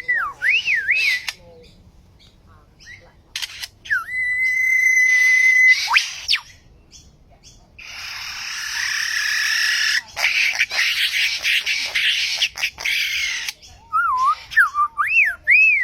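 A bird running through a series of varied calls. There are quick whistles that swoop up and down, and about four seconds in a long, steady, level whistle that ends in a sharp downward sweep. After that comes a harsh, scratchy screech lasting several seconds, and near the end more swooping whistles.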